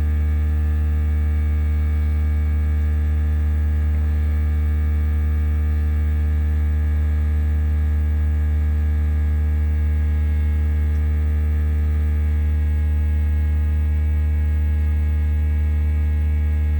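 Air compressor motor running with a loud, steady hum.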